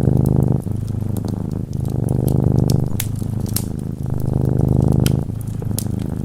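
Domestic cat purring close up, in alternating breath phases of about a second each, with the sharp light crackles of a wood fire over it.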